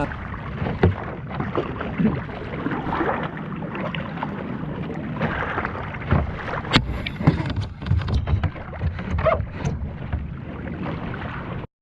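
Paddling a fishing kayak at sea: irregular paddle splashes and knocks over steady water noise and wind on the microphone.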